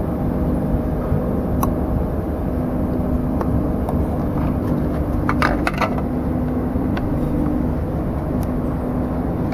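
A steady low background rumble with a faint hum, and a few short clicks about halfway through.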